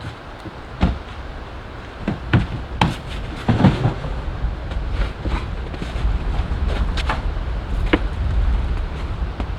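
Scattered knocks and clicks over a low rumble that grows louder about halfway through.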